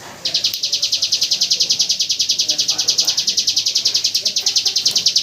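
Ciblek gunung, a prinia, singing its rapid-fire 'AK47' song: a long, fast, machine-gun-like run of evenly spaced high notes, more than ten a second, starting about a quarter second in and held without a break.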